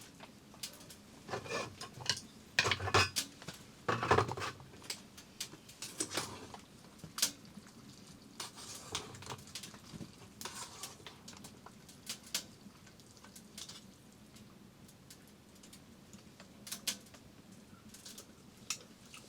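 Dishes and utensils clinking and knocking as they are handled, with a busy cluster of louder knocks a couple of seconds in, then scattered light clicks.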